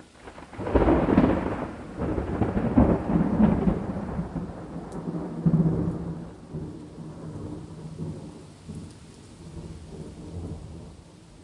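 A thunderclap breaks out about a second in, crackling loudly for several seconds, then rumbles and slowly dies away, over steady rain.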